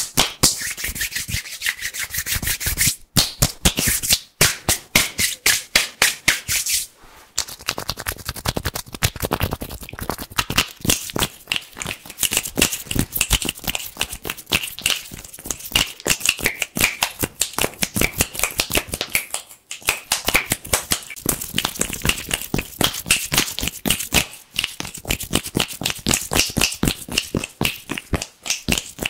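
Fast, vigorous hand sounds close to the microphone: rapid crisp rubbing and crackling strokes, many a second, broken by a few short pauses.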